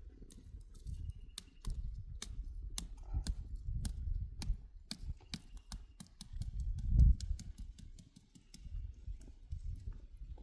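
Irregular sharp clicks and taps over a low rumble that swells briefly about two-thirds of the way through.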